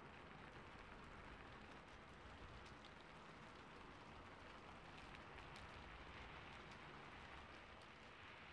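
Faint steady rain, an even patter with scattered ticks of single drops.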